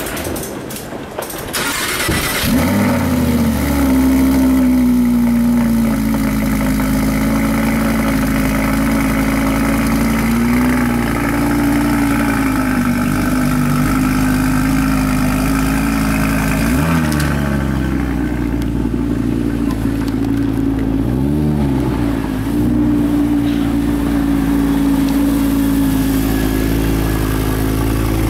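2016 Audi R8's 5.2-litre naturally aspirated V10 starting about two seconds in, flaring up and then settling into a steady idle. Three short blips of the throttle rise and fall later on.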